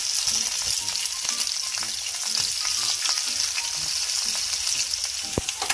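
Rings of bitter melon sizzling as they pan-fry in oil in a frying pan: a steady hiss with many small crackles and pops. A single knock sounds near the end.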